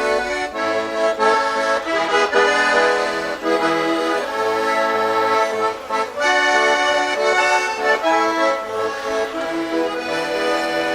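Accordion music: sustained chords under a moving melody, with the notes changing every fraction of a second.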